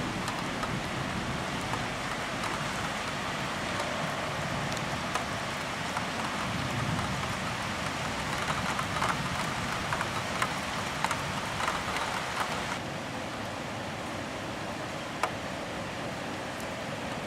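Rain falling in a thunderstorm: a steady hiss with scattered sharp ticks of drops striking close by. About thirteen seconds in, the hiss turns abruptly softer and duller, with one more sharp tick a couple of seconds later.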